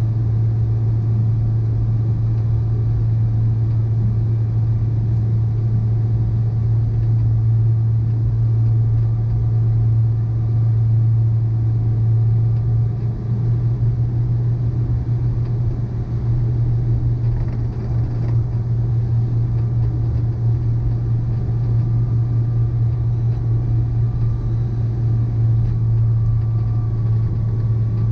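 A steady low mechanical hum with a few faint constant tones above it.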